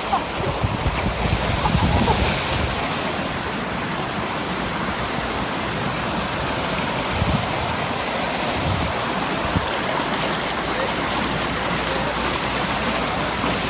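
A coastal lagoon's outflow rushing through a dug breakout channel to the sea: a steady rush of water, with wind buffeting the microphone in the first few seconds.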